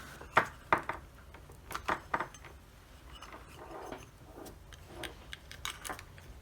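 Scattered light clicks and taps of small hard parts being handled on a workbench as an IP security camera is taken up for reassembly.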